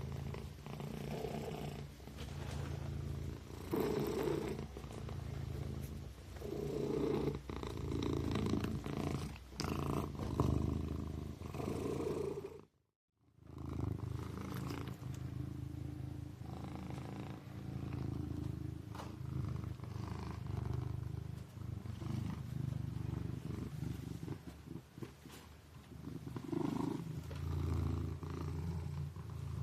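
Kitten purring steadily, the low rumble swelling and fading with each breath every couple of seconds. The sound cuts out completely for about half a second near the middle.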